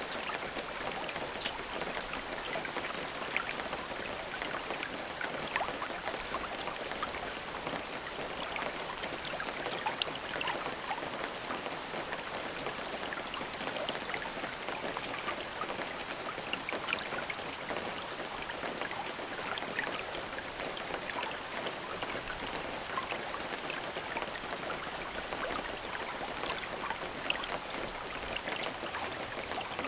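Steady, even rain with many individual drops ticking sharply through it, and no thunder.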